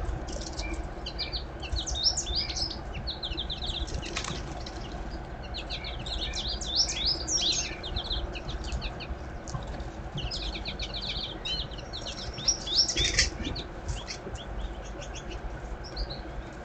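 Small songbirds at a feeder keeping up a busy, overlapping chatter of quick chirps and twitters, with the occasional brief flutter of wings.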